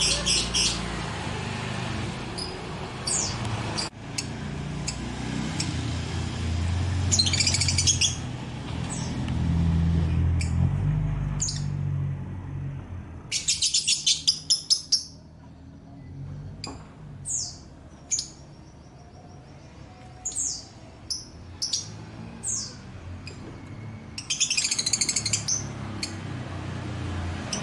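Small birds chirping: several rapid runs of high chirps lasting a second or two, with single short chirps between them, over a low rumble in the first half.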